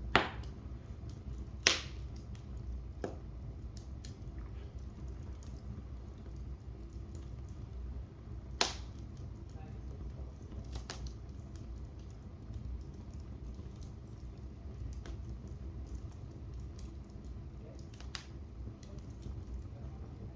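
Wood fire burning in a fireplace: a low steady rumble with sharp crackling pops. The loudest pops come right at the start, about two seconds in and about eight and a half seconds in, with fainter ticks between.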